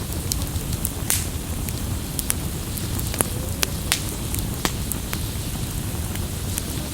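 Campfire crackling: burning wood snaps and pops at irregular moments over a steady low rumble, with a few sharper pops standing out.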